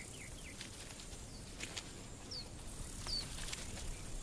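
Quiet outdoor ambience with a small bird giving short high chirps, two of them in the second half, over a few faint clicks.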